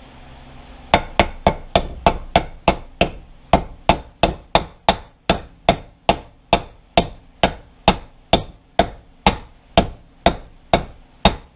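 Hammer blows tapping a bearing into a snowmobile chaincase, a steady run of sharp metallic strikes at about two and a half a second, starting about a second in. The bearing is being driven in because it did not drop freely into the heated case.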